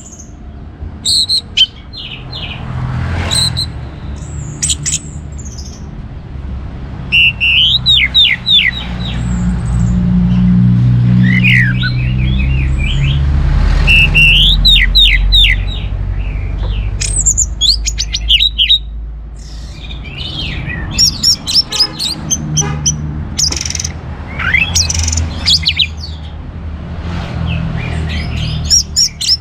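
Orange-headed thrush singing a lively run of varied phrases: quick sweeping whistles and sharp chirps, repeated in clusters with short gaps. A steady low rumble runs underneath.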